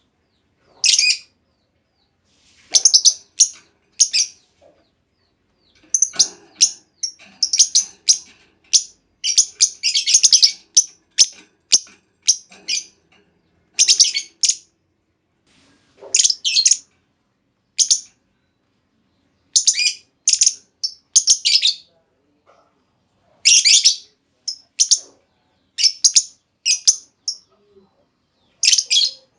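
Female lovebird calling in sharp, high-pitched chirps, delivered in quick clusters separated by short pauses.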